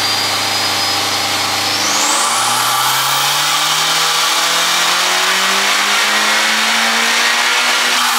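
Honda Civic Type R FK8's turbocharged four-cylinder engine, fitted with a PRL P600 big turbo, making a full-throttle dyno pull. It is held steady for about two seconds, then climbs smoothly in pitch through the revs while a high turbo whistle rises with it, and starts to drop away just at the end.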